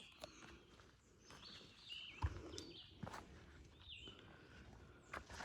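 Hiker's footsteps on rock, with a few sharp knocks, while a songbird repeats short chirping calls every second or so.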